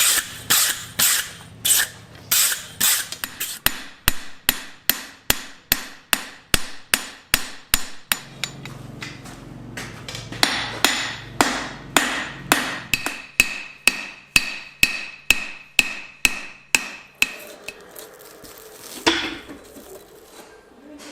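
Blacksmith's hand hammer striking steel on an anvil, forging the arms for spring swages: a steady run of blows at about two a second, some of them ringing. The blows stop about 18 seconds in, and one more falls a second later.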